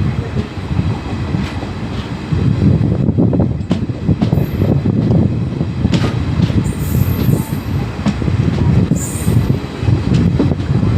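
Train running on the rails: a loud, steady low rumble with wheel clicks over the rail joints and a few brief high-pitched wheel squeals.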